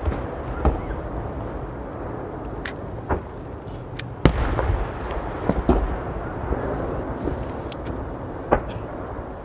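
Aerial fireworks shells bursting: a string of sharp bangs, the loudest about four seconds in, over a continuous low rumble of overlapping explosions echoing.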